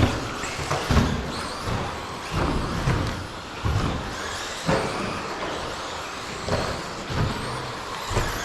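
Electric 1/10-scale stadium trucks with 13.5-turn brushless motors racing on a track: motor whines rise and fall, and short thuds come at irregular spacing, about one a second.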